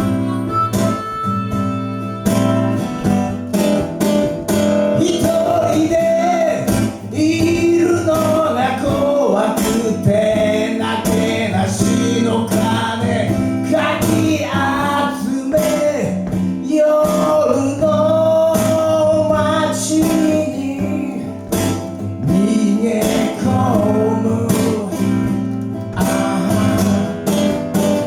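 Live guitar music played as a song's introduction: guitar chords underneath a bending lead melody line.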